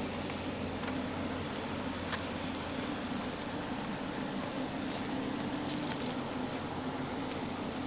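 A steady low mechanical hum from idling machinery, with a few faint clicks about two seconds in and again near six seconds.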